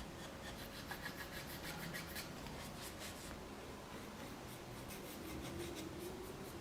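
A hand tool rubbing and scraping on wood, in quick repeated strokes for the first few seconds and then a more even rub.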